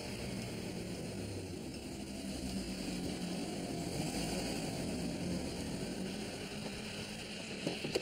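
A car engine running at low speed as the car pulls in and comes to a stop, swelling a little in the middle. There are one or two short clicks near the end.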